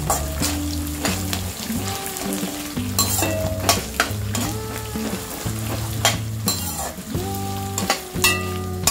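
Peanuts, garlic, sesame and fenugreek seeds, green chillies and ginger sizzling in hot oil in a stainless steel kadai, stirred with a metal slotted spatula. The spatula scrapes and clinks sharply against the pan a few times.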